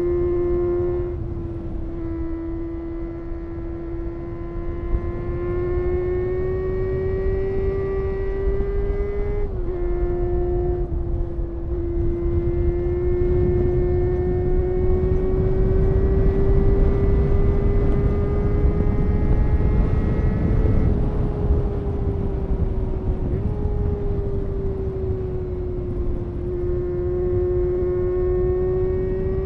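Honda CBR250RR MC22's 249 cc inline-four running at high revs under way. Its high engine note climbs and sags slowly, with short breaks in the pitch about a second in, around nine seconds and around twenty-three seconds, over a low rumble of wind and road noise.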